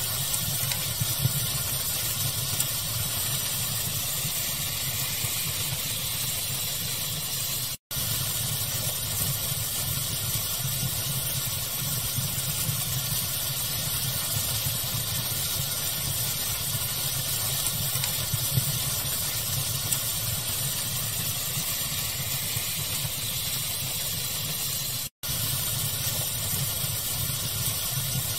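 Steady hiss of pink noise mixed with a fire's crackling, with a few small pops. The sound cuts out to silence for an instant twice, about eight seconds in and near the end.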